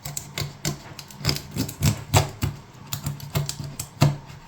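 Knife cutting up a whole raw chicken at the joints: a quick, irregular run of sharp knocks and clicks, about three a second, the loudest about two seconds in and again near the end.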